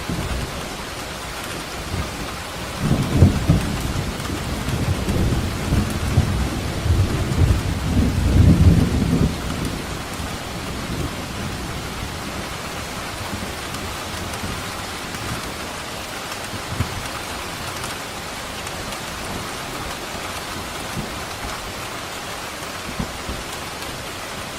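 Steady heavy rain with a long rolling thunder rumble that swells a few seconds in, peaks and dies away after about six seconds, leaving the rain alone.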